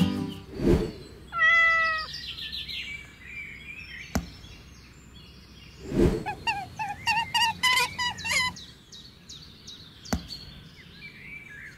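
A recorded cat meow, one drawn-out call about a second and a half in, laid over toy figurines being set into a miniature diorama. Dull thuds as the figures are put down, and a quick run of short high chirps in the middle.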